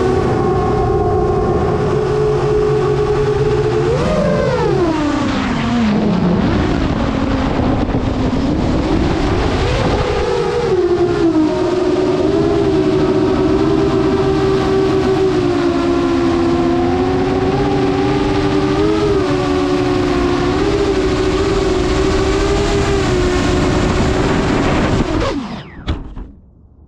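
An RC model airplane's motor and propeller running, a steady droning whine that swoops up then down in pitch twice with the throttle and airspeed, then cuts off suddenly near the end.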